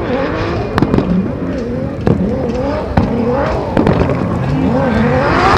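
Turbocharged 2JZ inline-six engine of a drift car, revving up and down repeatedly under hard throttle. Several sharp bangs are heard, spread through the revving.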